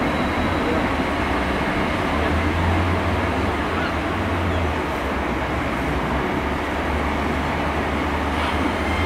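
Great Western Railway Intercity Express Train (Class 800-series) passing close by, with a steady low rumble and continuous running noise from its wheels and underframe.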